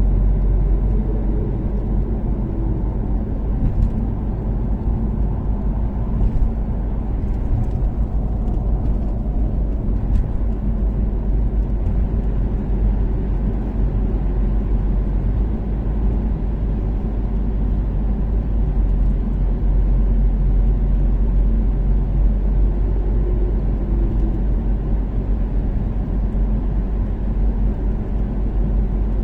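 Toyota Caldina ST246W with its turbocharged 3S-GTE inline-four cruising at a steady speed on an expressway. A continuous engine drone and road rumble, heavy in the low end, holding even throughout.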